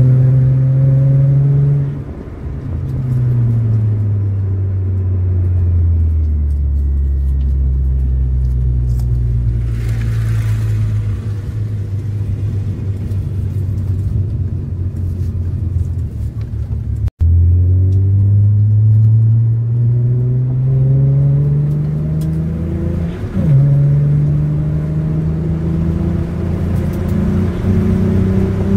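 Hyundai Tiburon (Tuscani) 2.7-litre V6 on its stock exhaust, heard from inside the cabin of the manual coupe. The engine's pitch drops about two seconds in and winds down, then runs low and steady. After a brief cut-out it climbs under acceleration, drops sharply for an upshift a few seconds later, and climbs again.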